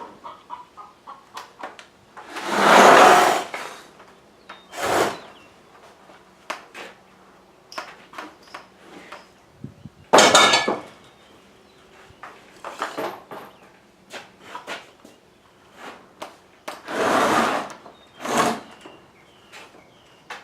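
Wooden 2x4 chicken-tractor frame being pulled over and handled: scattered wooden knocks and clunks, with several louder scraping or rustling noises about a second long.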